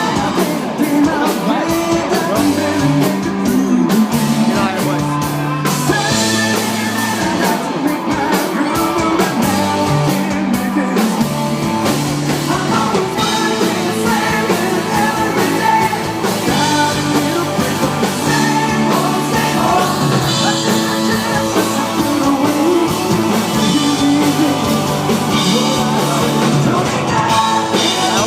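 Live rock band playing a song on stage: a singer over electric guitar, bass and drums, loud and continuous.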